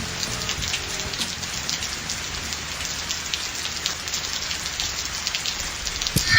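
Steady rain falling, an even patter full of small drop hits. Near the end a sharper knock sounds, with a brief ringing tone.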